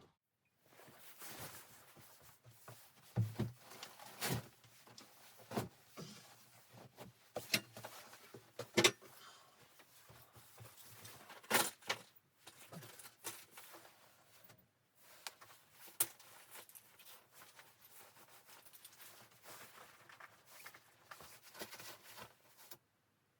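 Faint, scattered knocks and clicks at irregular intervals with light rustling between them, in a small room.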